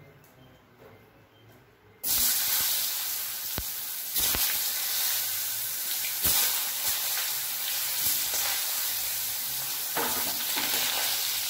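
Boiled potato wedges frying in hot mustard oil in a kadai. It is quiet for the first two seconds, then a loud sizzle starts suddenly and keeps on, with a few sharp clicks.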